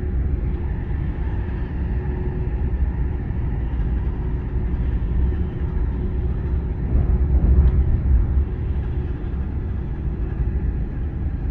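Running noise of an electric passenger train heard from inside the carriage: a steady low rumble of wheels on rails with a faint constant hum above it. It grows louder for a moment about seven seconds in.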